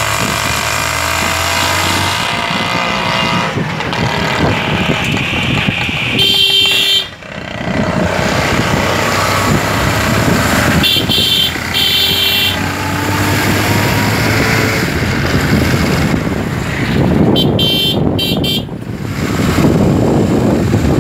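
Motorcycle riding along a road, with steady engine and road noise and wind on the microphone, broken by vehicle horn honks: one about six seconds in, two short toots around eleven to twelve seconds, and a quick string of toots near the end.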